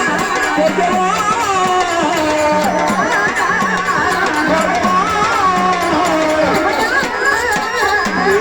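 A woman singing a Marathi gavlan, a folk devotional song, in a gliding, ornamented melody over a steady low beat.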